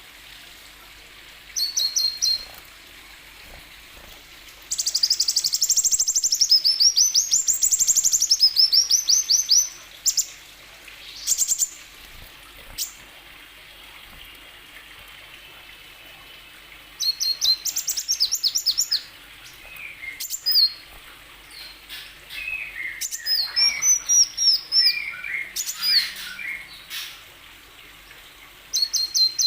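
Kolibri wulung sunbird singing in bursts of rapid, high trills and sharp chirps, with one long rippling trill that sweeps up and down in pitch, and short pauses between phrases.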